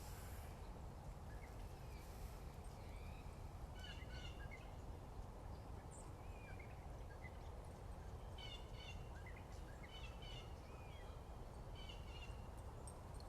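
Songbirds calling and twittering in short chirps, with clusters around four seconds in and again from eight to twelve seconds, over a steady low background rumble.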